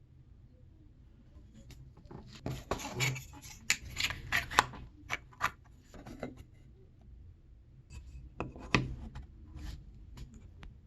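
Scattered small clicks, taps and rustles of small objects being handled, coming in clusters about two to five seconds in and again near nine seconds.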